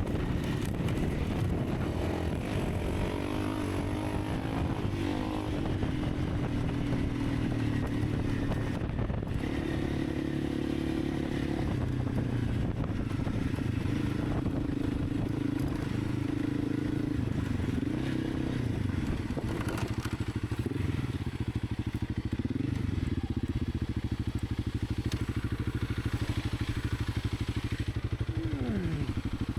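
Honda CRF300 Rally's single-cylinder engine running while being ridden, its pitch rising and falling with the throttle and gear changes; near the end the revs drop quickly.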